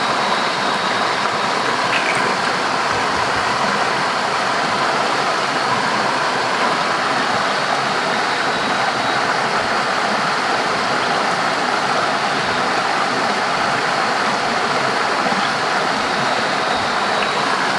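Steady rushing of water, even and unbroken, with a faint thin high tone held above it.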